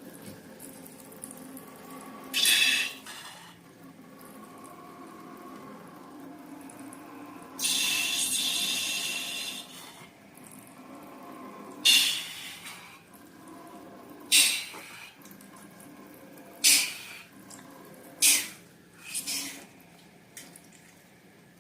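Wet, sticky slime sounds: a run of short sudden squelches and one longer, two-second wet rush partway through.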